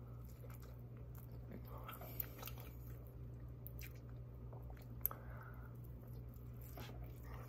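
A person biting and chewing pieces of fried chimichanga, faint, with a couple of sharp mouth clicks about two and five seconds in. A steady low hum runs underneath.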